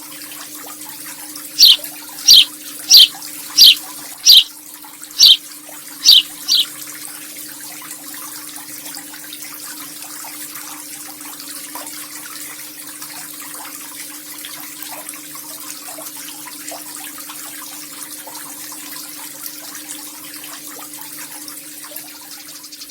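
Eurasian tree sparrow giving eight loud, sharp chirps, each falling in pitch, spaced about two-thirds of a second apart in the first few seconds, then falling quiet. Under it runs a steady sound of running water like a tap.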